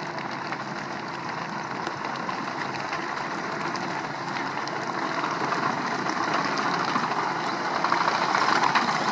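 A steady engine-like running noise, growing slightly louder over the last few seconds.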